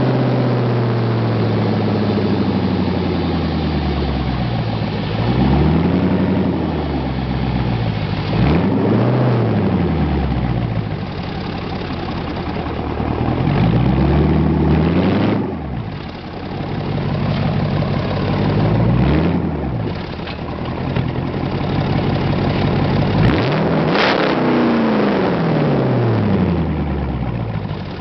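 2006 Jeep Grand Cherokee SRT-8's 6.1-litre Hemi V8 running through a straight exhaust with no mufflers or resonators. It idles and is revved about five times, each rev climbing in pitch and falling back to idle.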